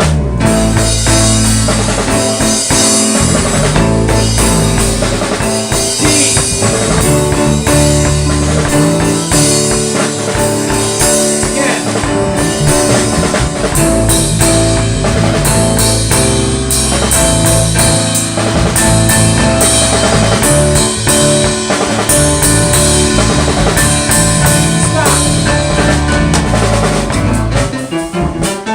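A band playing at full volume: drum kit with bass drum, over held pitched notes from bass and other instruments.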